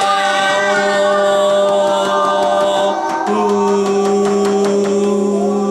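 Young children singing long held notes together on a vowel sound, over a steady low tone. The note steps up slightly about three seconds in and is held again.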